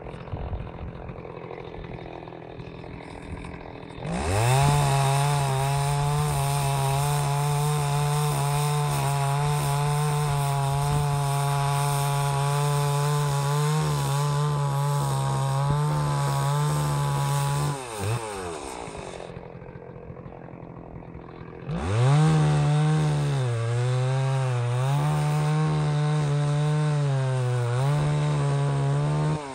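Stihl 038 Magnum two-stroke chainsaw idling, then revving up to full throttle about four seconds in and cutting wood at a steady pitch for about fourteen seconds before dropping back to idle. A few seconds later it revs up again and cuts, its pitch sagging and recovering under load, then drops back at the end.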